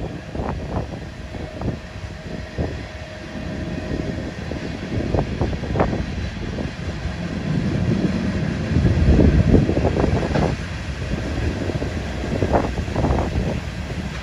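Slow freight train of tank cars rolling past: a low rumble of steel wheels on rail with irregular clanks and knocks, swelling loudest about nine seconds in.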